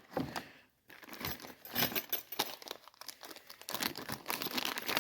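Packaging crinkling and rustling in irregular bursts as parts are unwrapped, with a little tearing.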